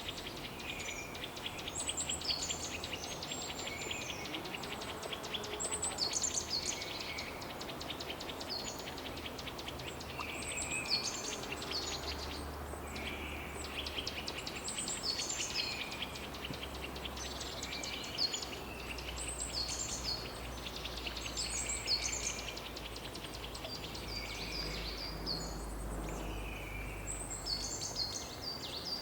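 Songbird singing short high phrases that repeat every few seconds, over a steady background hiss of outdoor ambience.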